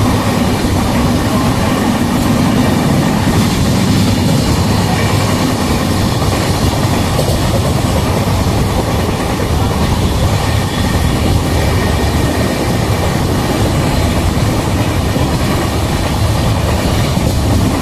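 Hutatma Express running at speed, heard from aboard: a steady loud rumble of wheels on rails with a rushing noise.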